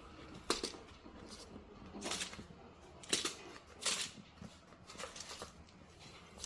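A handful of short, irregular rustling noises, about a second apart.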